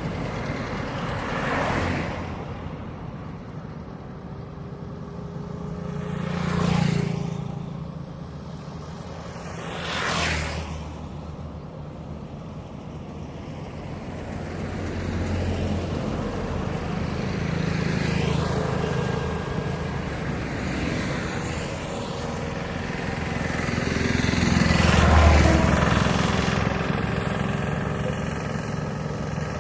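Road traffic passing: vehicles go by one after another, each swelling and fading. Two brief, quick passes come in the first third, then slower, longer passes with a low engine drone, the loudest near the end.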